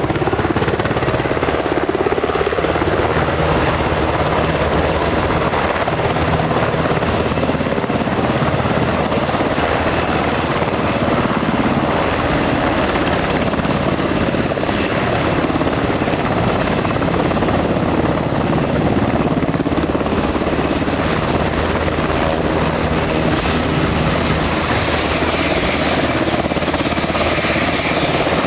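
UH-60A Black Hawk helicopter running with its rotor turning: the steady rotor thrum is overlaid by a thin, high, constant turbine whine, and the sound holds a steady level throughout.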